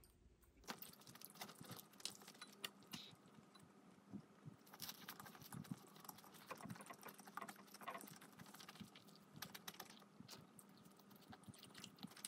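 Faint chewing of a full mouthful of food: many small, irregular crunches and mouth clicks.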